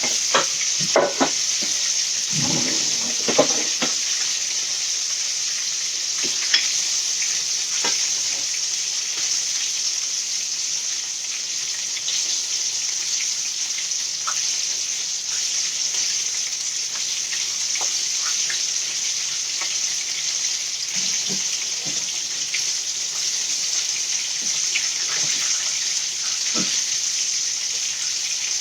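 Steady sizzle of food frying in a pan, with a few light clicks and knocks scattered through it.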